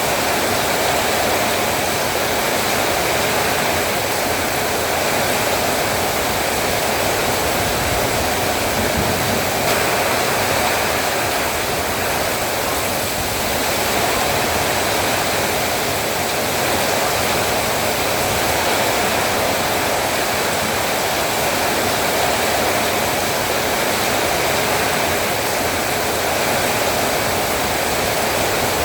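Heavy rain falling steadily, an even, unbroken wash of sound.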